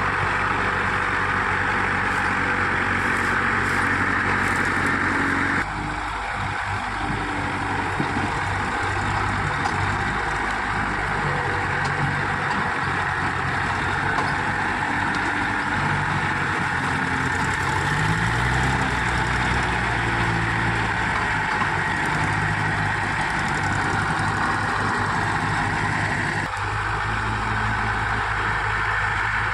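Mahindra tractor's diesel engine running steadily, its pitch shifting up and down for a few seconds around the middle. The sound changes abruptly about six seconds in and again near the end.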